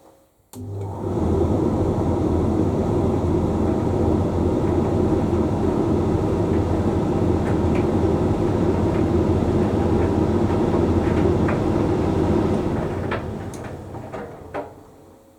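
Hoover Link X Care condenser tumble dryer starting up again after a brief pause, about half a second in. It runs steadily with its drum turning the laundry and a few light clicks. It winds down to a stop over the last few seconds.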